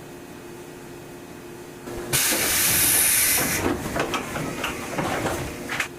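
Sudden loud hiss of compressed air from a JNR 101 series electric train, lasting about a second and a half, followed by a couple of seconds of rattling and knocking, over a steady background hiss.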